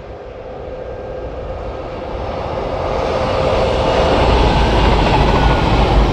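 Electric multiple-unit passenger train approaching and passing at speed. A rising rush of wheels and air, with a faint steady hum, grows louder and is loudest as the train goes by near the end.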